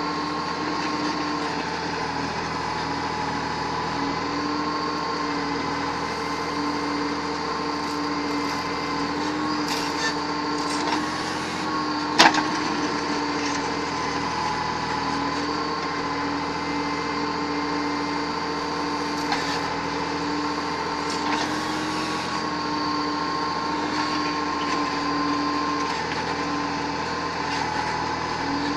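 Diesel engine of heavy machinery running steadily at a constant speed, with one sharp knock about twelve seconds in and a few fainter clicks.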